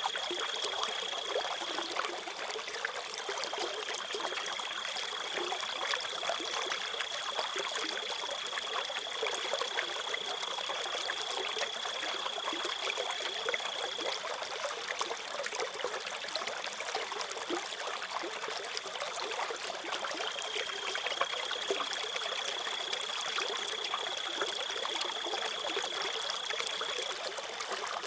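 Crickets trilling in one steady high note over a trickling stream. The trill breaks off briefly about two seconds in, falls silent for several seconds mid-way, then comes back.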